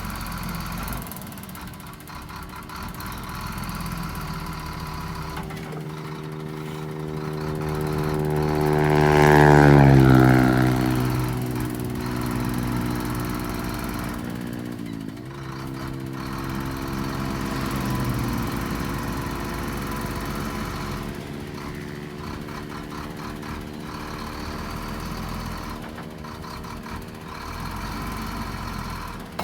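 Heavy diesel engine of earthmoving machinery running under load. It revs up to its loudest about ten seconds in, then drops back, dips and picks up again around fifteen seconds, and keeps working at a steady pitch after that.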